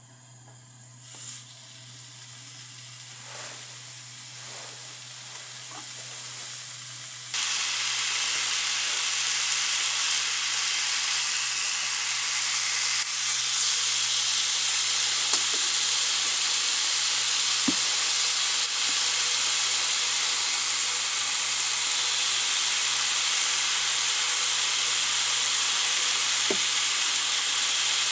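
Food sizzling in a hot pan: a faint crackle that slowly builds, then turns suddenly into a loud, steady sizzle about seven seconds in, with a couple of small ticks later.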